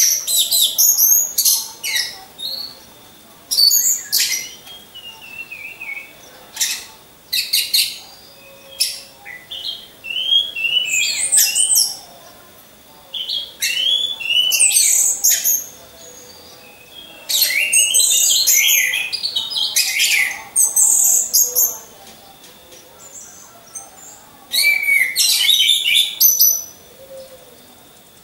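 Orange-headed thrushes singing: loud, high phrases of rapid, sliding whistled notes, each lasting one to three seconds, with short pauses between. This is the song used as a lure to set other thrushes singing.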